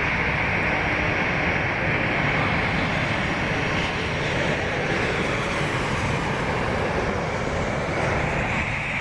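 Jet aircraft engines running, a steady, even rush with a high whine band on top.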